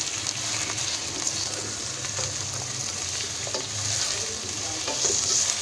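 Raw chicken pieces and browned onions sizzling steadily in hot oil in a nonstick pan, stirred with a spatula that adds light irregular clicks and scrapes.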